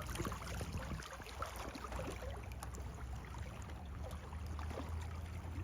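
Floodwater lapping and sloshing over the edges of a causeway, a continuous patter of small splashes over a steady low rumble.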